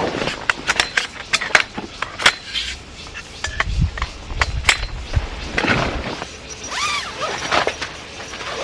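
Tent-pitching handling noise: a run of sharp clicks, knocks and clinks as tent gear is handled and set up, with a low rumble in the middle.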